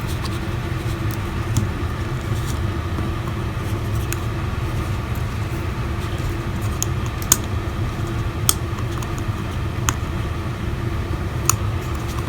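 Steady low rumbling background noise with a faint hum, and a handful of small sharp clicks spread through it, from small phone parts and tools being handled.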